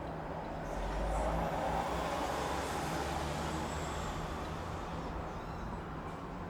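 City street traffic heard from above, with a heavy vehicle passing: a deep engine rumble and road noise swell about a second in, then slowly fade under the steady traffic.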